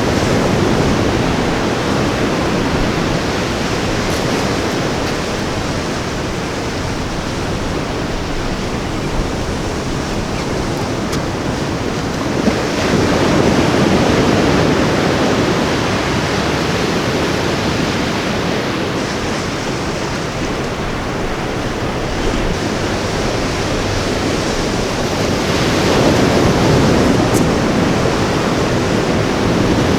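Ocean waves breaking and washing up on a beach, a continuous roar of surf that swells twice as larger waves come in, about a third of the way through and again near the end.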